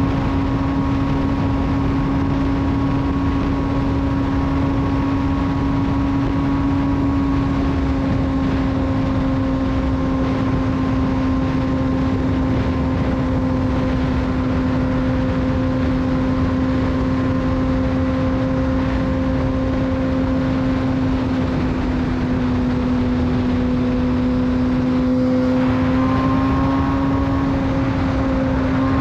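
Suzuki GSX-R600 inline-four running through a de-catted full Yoshimura exhaust at a steady highway cruise, its engine note holding a nearly constant pitch that dips slightly about three quarters in and edges up near the end.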